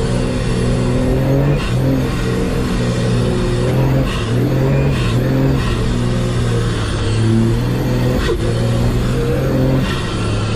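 Nissan TD42 straight-six diesel engine working hard up a steep sand hill under heavy load. The revs drop sharply and climb again several times, about four dips across the stretch.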